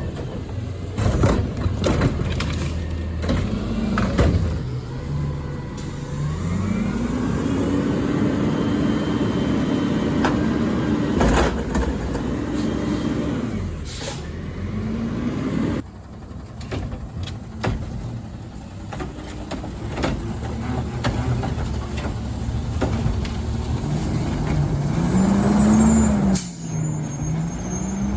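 Garbage truck engine revving up and down as it works its hydraulics, with sharp knocks and clatter and air-brake hisses. The engine climbs and holds high for several seconds in the first half, and revs up and down again near the end.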